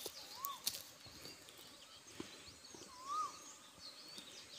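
Faint outdoor birdsong: a clear whistled note that rises and falls, heard twice about two and a half seconds apart, over scattered high chirps from other birds.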